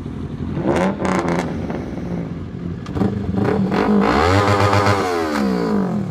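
A vehicle engine running at idle, then revved once about two-thirds of the way in, its pitch rising and falling back to idle.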